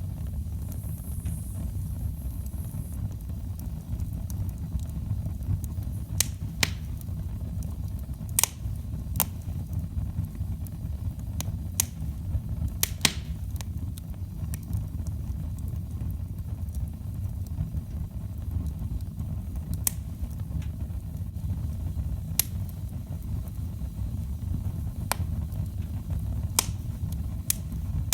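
Firewood burning in a fireplace: a steady low rumble of the flames, broken by about a dozen sharp, irregularly spaced crackles and pops from the burning wood.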